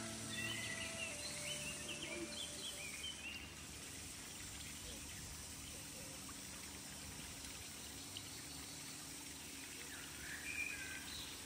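Birds calling in short, chirping phrases in the first few seconds and again near the end, over a steady outdoor background noise.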